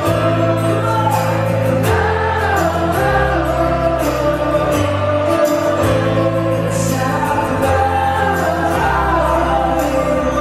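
Live band performance with singing over the music: bass notes held and changing about every two seconds under steady cymbal and drum hits.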